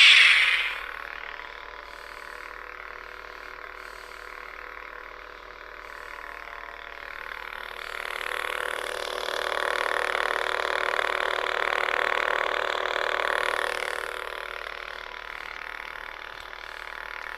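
Saber Forge Redeemer lightsaber's electronic sound board playing its blade effects through the hilt. The tail of the ignition sound fades in the first second. A steady, throaty hum follows and grows louder between about eight and fourteen seconds, then settles back.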